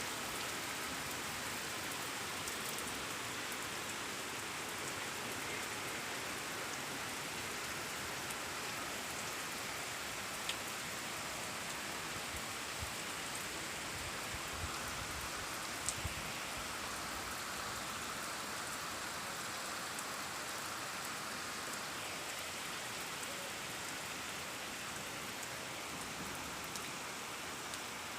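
Steady rain falling and pattering on surfaces, with a few louder single drops or ticks now and then.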